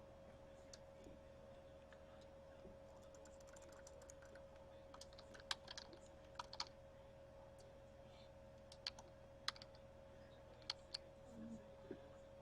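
Faint, scattered computer keyboard clicks, a dozen or so sharp taps mostly in the second half, over a steady electrical hum.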